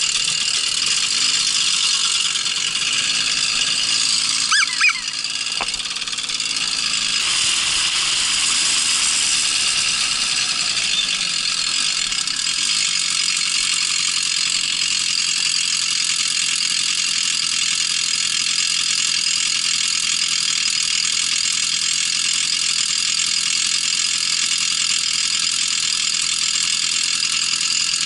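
Babetta moped's small two-stroke engine running steadily under way off-road, a high buzz with rattling. A brief louder squeal about five seconds in.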